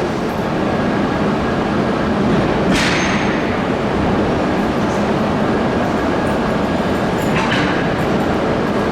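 Shinkansen train running along the track, a steady dense rumble, with two brief sharp hisses, one about three seconds in and one near the end.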